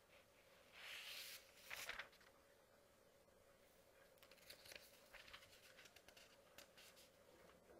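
Paper pages being turned by hand: a soft rustling swish about a second in and another just after, then a run of light crinkling ticks in the second half as the paper settles.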